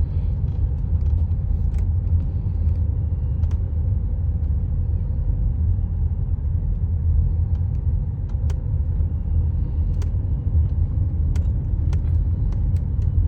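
Car moving slowly: a steady low rumble of engine and road, with a few faint clicks.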